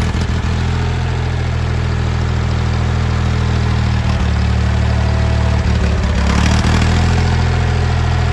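Ford 2000 tractor's carbureted gasoline engine idling steadily just after a cold start, with a brief rise about two-thirds of the way through.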